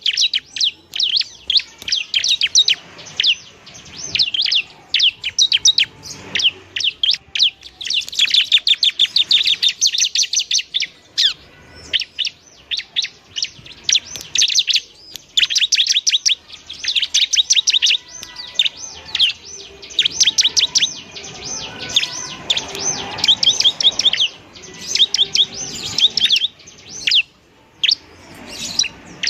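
Bar-winged prinia (ciblek) singing energetically, with fast runs of sharp, high chirping notes in bursts broken by short pauses.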